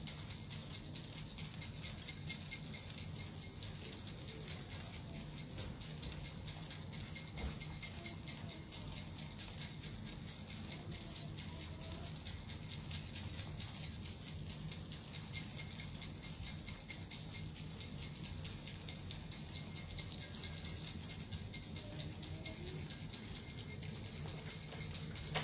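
Small Japanese suzu bells shaken continuously in a fast, even jingle.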